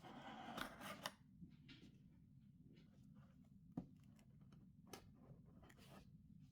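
Faint handling noises of PC parts being worked on: a short rustle at the start, then scattered small ticks and one sharp click a little under four seconds in, over a low steady hum.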